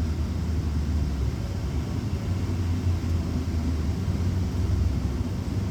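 Steady low rumble with no distinct events, like a car's engine and road noise heard from inside the cabin.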